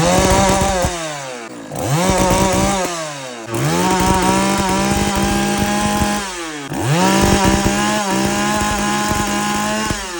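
Oleo-Mac two-stroke chainsaw engine revved again and again: about four bursts of full throttle, each held for a second or a few seconds before falling back toward idle. The engine is misfiring.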